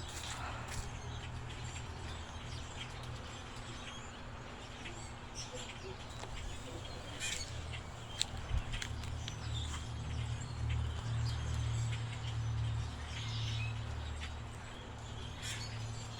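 A large flock of birds calling, many short chirps overlapping, over a steady low rumble.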